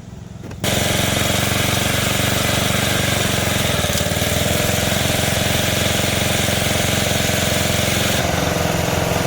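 An engine running steadily at a constant speed, starting abruptly just over half a second in.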